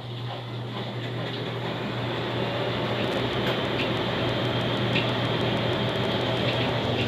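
Enxuta Master semi-automatic washing machine in its final spin: a steady motor hum and drum noise that grows louder over the first few seconds as it comes up to speed, then holds, with light scattered ticks.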